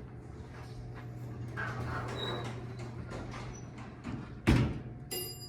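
Older Otis elevator running with a steady hum that stops about four seconds in, followed by a loud clunk and then a mechanical bell striking once and ringing on, the car's arrival signal.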